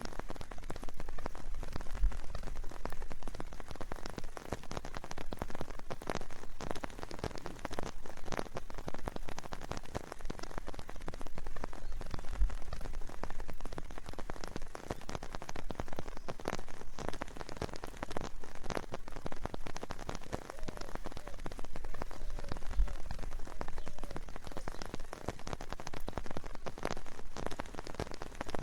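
Steady rain falling, with many separate drops striking close by. A few soft low thumps stand out about two seconds in, near the middle and about three-quarters through.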